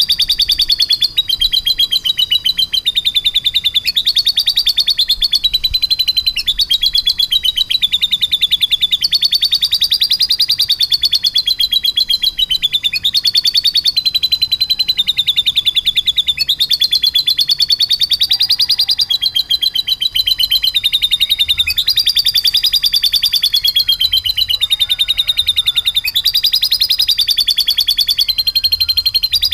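Domestic canary singing a long unbroken rolling song ("ngeroll") of very fast trills. The phrases shift pitch every second or two and borrow the lovebird's song.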